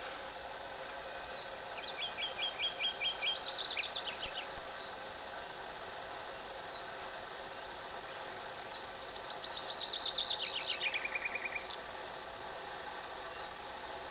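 Common nightingale singing two song phrases, each a fast series of repeated notes, the first about two seconds in and the second about nine seconds in, which ends in a rapid trill.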